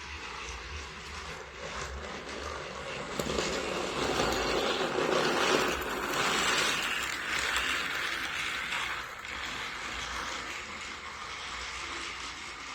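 Motorized Thomas & Friends Ashima toy engine running along its track: a small motor whirring with wheels clattering, louder from about four seconds in until about nine seconds.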